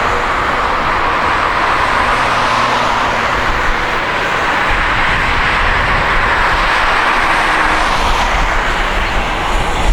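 Jet airliner engines heard close by as the aircraft passes, a loud steady rushing noise, with a low rumble joining about halfway through.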